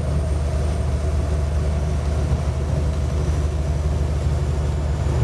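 Peterbilt semi truck's diesel engine running at a steady drone while driving, heard from inside the cab, with road and wind noise over it.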